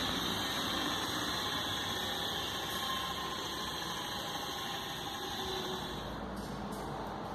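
Steady running noise of a car engine idling. About six seconds in the high hiss drops away and a low rumble comes up.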